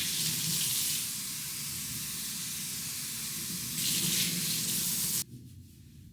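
Steady rushing of running water, swelling twice, then cutting off abruptly about five seconds in.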